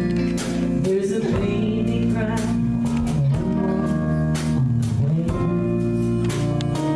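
Live country band playing an instrumental break between vocal lines: a lead guitar with bending, sliding notes over bass and drums with cymbal hits.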